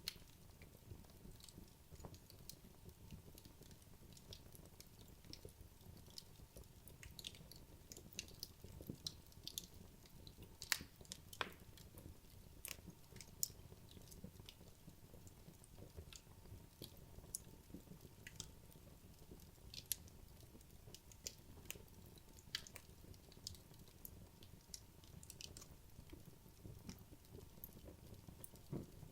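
Wood logs burning in a fireplace, crackling with frequent sharp pops and snaps at irregular intervals over a soft, low hiss of flame.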